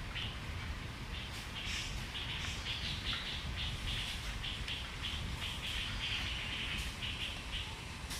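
Birds chirping: a quick run of short high notes that starts about a second in and stops near the end, over a low steady rumble.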